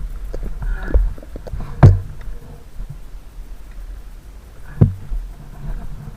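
Sharp knocks and thumps over a low rumble as an action camera mounted on an off-road motorcycle jolts over rough ground; the loudest knock comes about two seconds in and another about five seconds in.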